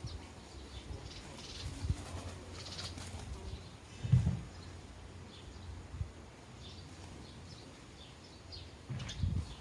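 Sparrows chirping intermittently at bird feeders, with two short low thumps, one about four seconds in and one near the end.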